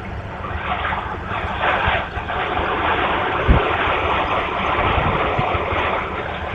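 Strong gusty wind buffeting the microphone over the running engine of a landing aircraft, with a sharp thump about three and a half seconds in.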